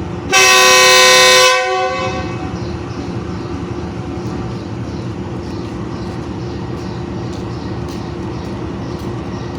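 Diesel locomotive air horn sounding one loud blast of about a second and a half, the departure signal, followed by the locomotive's diesel engine running steadily.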